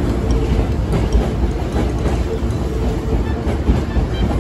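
Hankyu electric commuter train running past along a station platform, a steady low rumble with scattered faint clicks from the wheels and cars.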